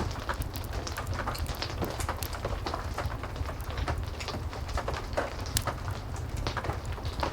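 Heavy rain and a crackling fireplace: a steady low rumble and hiss of rain under many short, irregular pops and ticks.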